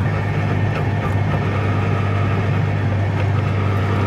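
A Goggomobil's air-cooled two-stroke twin engine running steadily as the car drives, heard from inside the small car's cabin.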